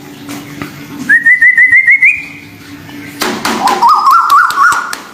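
Bird calling: a quick run of about seven short whistled notes stepping up in pitch, then after a pause a lower run of short rising whistled notes.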